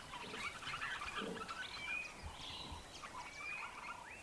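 Wild birds calling in the bush: a busy mix of short chirps, with a few brief whistled notes.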